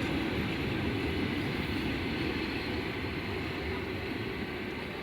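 ЭП2Д electric multiple unit rolling along the track, a steady rumble of wheels on rails that slowly fades as the train moves away.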